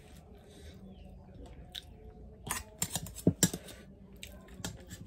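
Close-up chewing of a mouthful of food, with a quick run of loud crunches and clicks midway.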